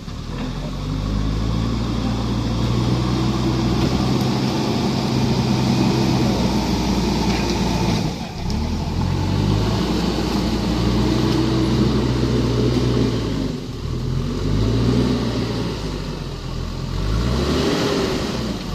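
Heavy earth-moving machine's engine running continuously, its pitch repeatedly rising and dropping as it revs up and eases off, with a couple of brief dips.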